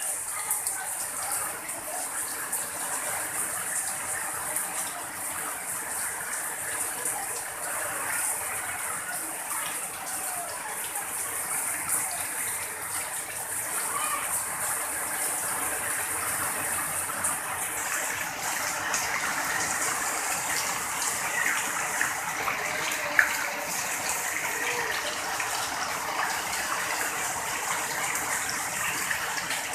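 Heavy tropical rain pouring steadily onto roof tiles and leaves, with water running off the roof edge. One brief sharp tap a little past the middle.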